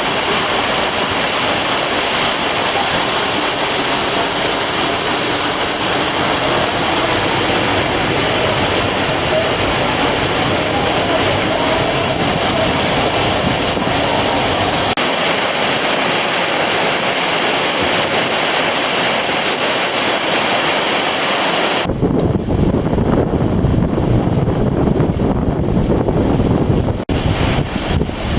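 Steady rush of sea surf and wind. About three-quarters of the way through, it changes abruptly to heavy, low wind buffeting on the microphone.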